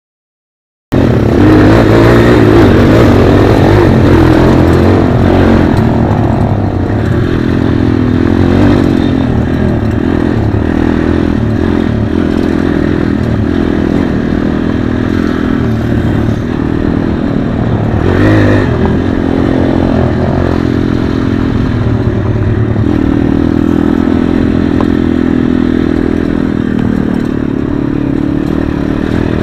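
Pit bike engine running loudly, its pitch rising and falling as the throttle is opened and eased off. It starts abruptly about a second in.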